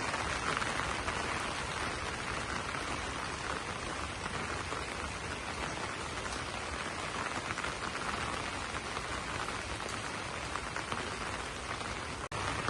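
Steady rain falling on banana leaves: a dense patter of drops that cuts out for an instant near the end.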